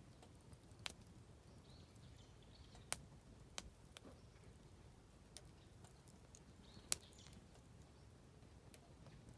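Oak firewood burning in a campfire, giving sharp crackles and pops every second or two, the loudest about three and seven seconds in. Faint birdsong chirps sound in between.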